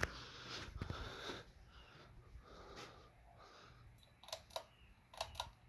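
Crest RB42 ceiling fan running on low with a faint steady hum. From about four seconds in there is a run of sharp clicks, several in quick succession, as the pull chain is worked to switch the fan up to medium.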